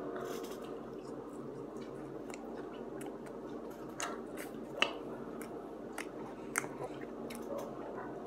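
A person chewing a mouthful of French fries close to the microphone, with scattered sharp mouth clicks, the loudest a little under five seconds in, over a steady low hum.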